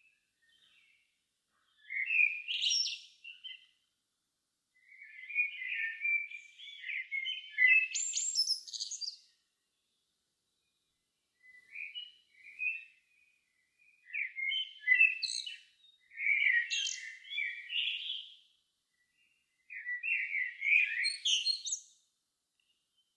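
A songbird singing at dusk: five separate warbled phrases, each a second or two to about four seconds long and ending in quick high flourishes, with short silent pauses between them.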